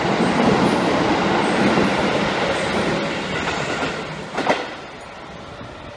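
Keikyu New 1000 series stainless-steel train passing through a station at speed: a loud rush of wheel and running noise that fades after about three seconds. A short sharp sound follows at about four and a half seconds, then a quieter background.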